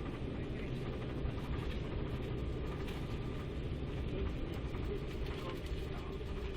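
Steady cabin noise inside an Embraer 195 airliner with its GE CF34 turbofans running: a low rumble with a faint thin whine over it.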